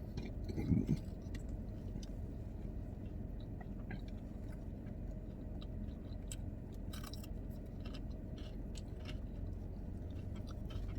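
Someone chewing In-N-Out food, with small scattered mouth clicks, over a steady low hum.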